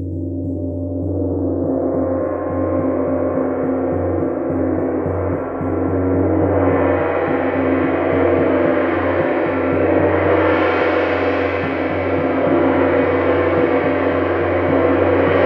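Gong played continuously in a sound-therapy session, its ringing swelling louder and brighter in waves, with fresh surges about two, six and ten seconds in over a steady low drone.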